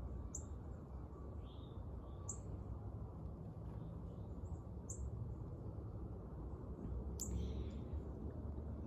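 Small songbirds giving short, sharp, high chip notes every two to three seconds, over a steady low outdoor rumble.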